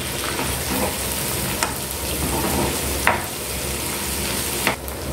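Onions, garlic paste and fresh curry leaves sizzling in hot oil in a kadai as a metal spoon stirs them, with a few sharp clinks of the spoon against the pan.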